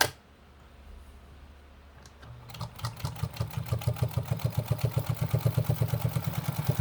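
New Home sewing machine with a refurbished motor driving it through a rubber wheel, sewing through one layer of 1.2 mm leather. After a click, it starts about two and a half seconds in and runs at a fast, even stitching rhythm. It sews through the leather easily.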